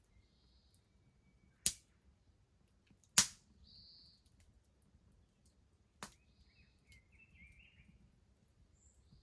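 Wood bonfire popping: three sharp cracks about 1.7, 3 and 6 seconds in, the middle one the loudest, over a low, faint rumble. Small birds chirp faintly between the pops.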